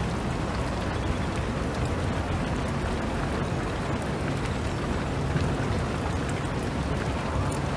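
Steady rain: an even hiss with a few faint sharp drip ticks, over a constant low rumble.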